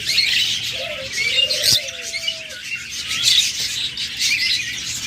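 Caged doves cooing, with two arched coos in the first half, over a constant chatter of many small cage birds chirping. A single sharp click comes about a third of the way in.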